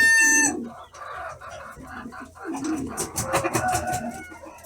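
A rooster's crow ends about half a second in, followed by softer, scattered fowl calls.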